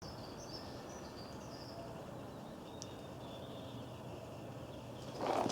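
Outdoor ambience: a steady background hiss with faint, high bird chirps in the first couple of seconds.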